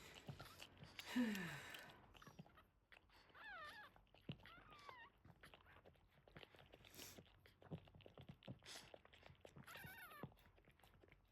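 Faint, brief wavering squeaks from newborn Boston Terrier puppies, a few seconds in and again near the end. Small wet clicking sounds run underneath as the mother dog licks the puppies clean.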